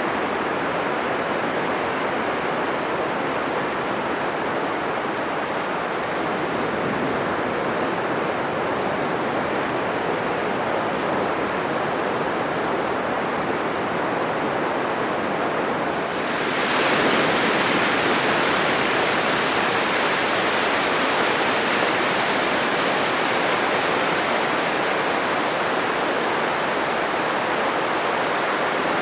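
Atlantic surf breaking on a sandy beach: a steady rushing wash of waves. A little past the halfway point it suddenly turns louder and brighter.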